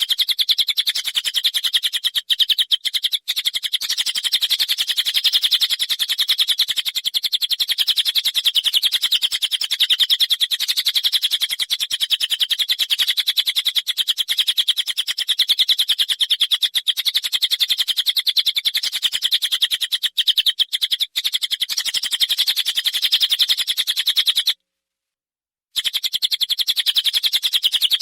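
A songbird's masteran recording: a long run of rapid, high-pitched notes repeated without a break, with one short cut-out near the end.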